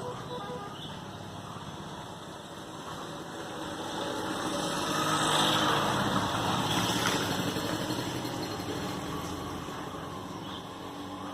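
A motor vehicle's engine running and passing by, growing louder to a peak about halfway through, then fading.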